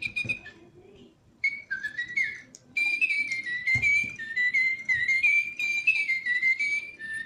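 Little Live Pets electronic toy bird chirping through its small speaker: high whistled tweets that warble up and down, in short phrases at first and then an almost continuous run from about three seconds in.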